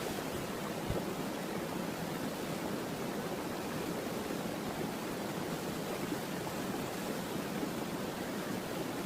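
Steady, even rush of running water, such as a waterfall or fast stream, with one small click about a second in.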